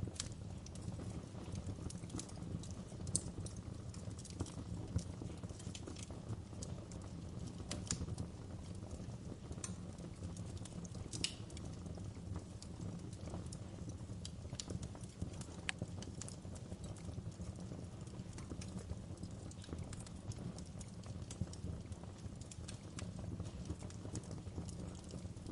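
Wood fire burning steadily with a low rumble, crackling with irregular sharp pops and snaps.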